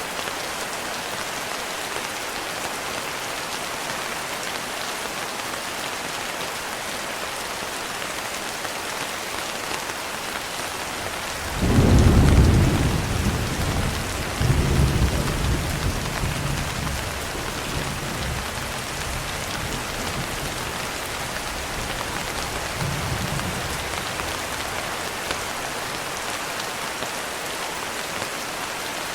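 Steady rain falling on a window. About a third of the way in, a thunderclap breaks in suddenly and rolls into a low rumble that dies away over several seconds. A fainter rumble follows later.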